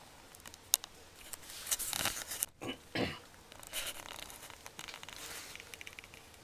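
Faint rustling and crinkling with a few scattered sharp clicks.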